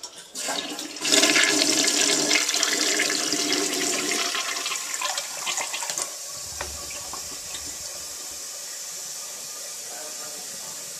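Toilet being flushed: a loud rush of water starting about a second in and lasting some five seconds, then a steadier, quieter hiss of water running. The bathroom's drains are draining real slow.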